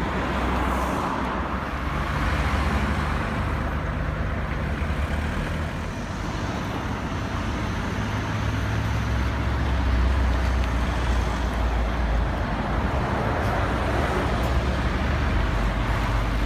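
Motor vehicle engine running with a steady low hum that steps in pitch a few times, over continuous road and traffic noise.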